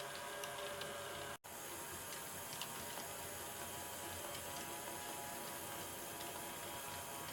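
Small 6 V gear-head motors of a kinetic sculpture whirring steadily, with a few faint ticks from the mechanism. The sound cuts out for an instant about a second and a half in.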